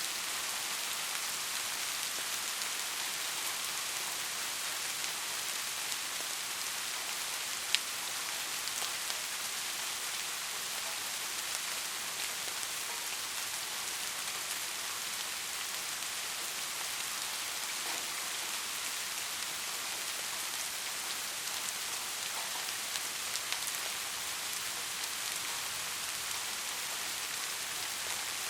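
Steady heavy rain falling as an even hiss, with scattered individual drops ticking and one sharper tick about a quarter of the way in.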